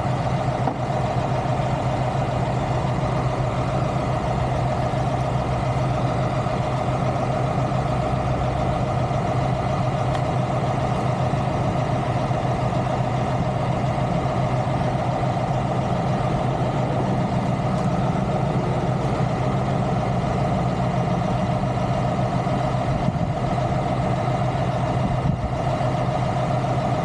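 Diesel truck engine idling steadily, an even, unchanging hum.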